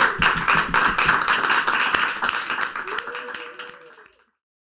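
A small audience applauding, the clapping fading out to silence about four seconds in.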